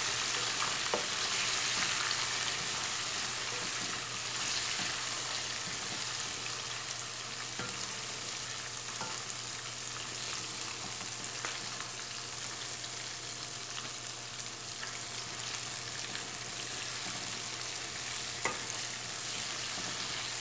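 Tomato quarters and green chillies sizzling steadily in hot oil in a nonstick pan. A wooden spoon stirs them, with a few sharp taps against the pan.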